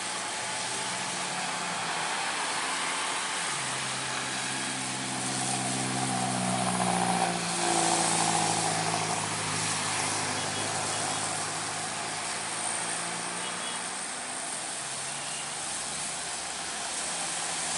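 Heavy truck's diesel engine labouring up a steep climb, over a steady hiss of traffic and tyres. It grows louder, is loudest about halfway through as it passes, then fades.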